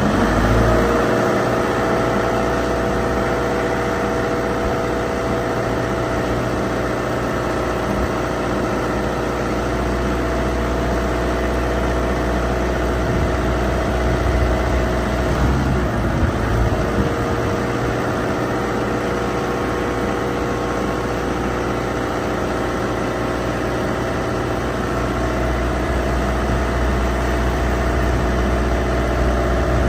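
Forklift engine running steadily with a low rumble and a steady whine on top; the whine breaks off about halfway through and comes back a second or two later.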